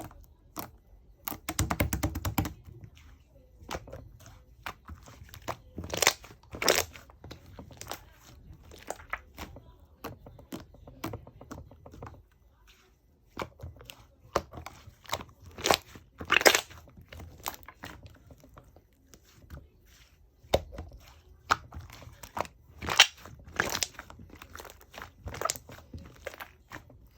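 Hands playing with slime: irregular sticky pops and crackling clicks as it is pressed, folded and stretched, with a rapid run of clicks near the start and several louder cracks spread through.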